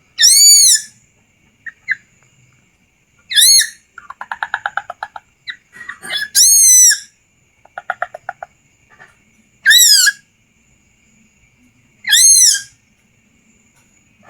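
Dedes chick calling for its parent: five loud whistled calls, each rising and then falling in pitch, a few seconds apart. Two quick runs of lower, rapidly repeated notes fall between them.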